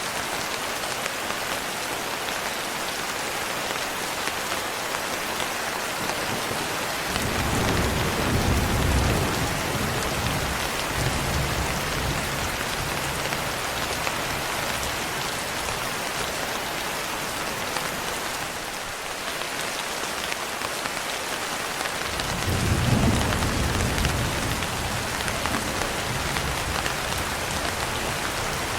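Steady rainfall with two rolls of thunder, the first about seven seconds in and the second about twenty-two seconds in, each rumbling low for a few seconds before fading back into the rain.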